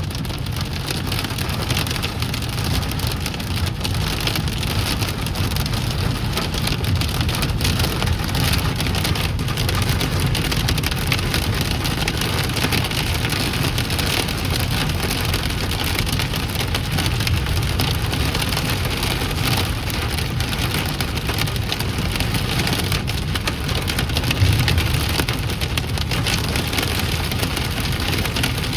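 Hailstones about an inch across drumming on a car's roof and windshield, heard from inside the cabin: a dense, steady clatter over the low rumble of the car on the road. One louder thump comes near the end.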